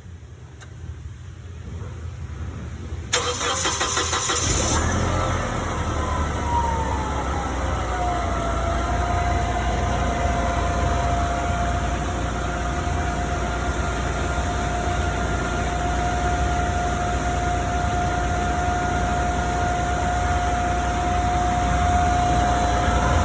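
Forklift engine cranking and catching about three seconds in, then running steadily at idle. A whine drops in pitch as the engine settles, then holds one steady note.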